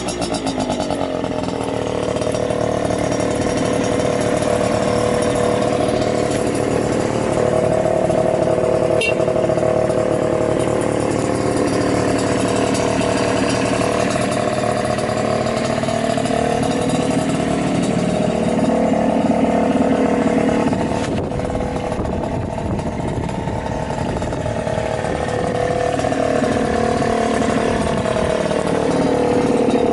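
Suzuki Hi Walter Wolf 50 cc two-stroke scooter engine idling through an aftermarket coiled expansion chamber, its pitch wavering slightly. It runs without abnormal noises.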